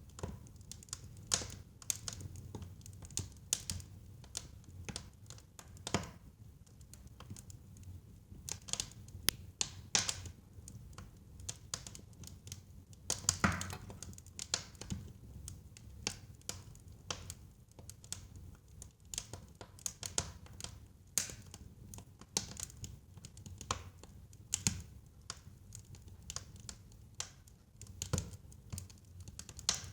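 Wood fire crackling in a fireplace: irregular sharp pops and crackles, a few a second, over a steady low rumble of the flames, with one louder pop about thirteen seconds in.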